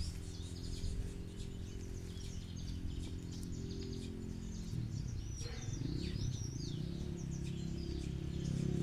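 Small birds chirping repeatedly over a low steady hum.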